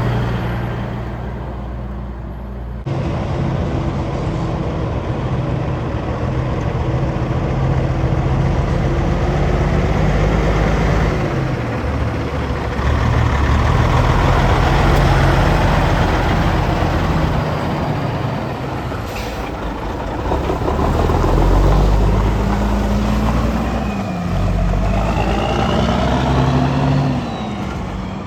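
Heavy trucks passing on a road with their diesel engines running. Near the end the engine pitch rises and falls a few times, as when a truck changes gear.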